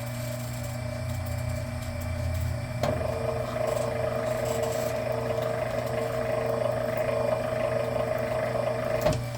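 Electric wire stripping machine motor starting with a click about three seconds in and running steadily with a pitched whine while Romex cable is fed through and stripped, then stopping abruptly near the end.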